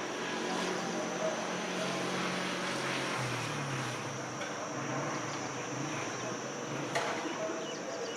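Outdoor ambience: a steady high insect drone under a low, engine-like hum that shifts slightly in pitch about three seconds in.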